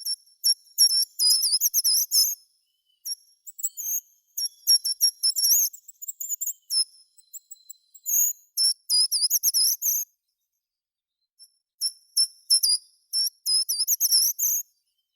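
A songbird singing in quick, high-pitched chirping phrases of a second or two each, broken by short pauses.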